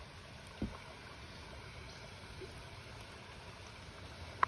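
Steady rush of flowing creek water, with a short knock about a second in and a sharper click near the end.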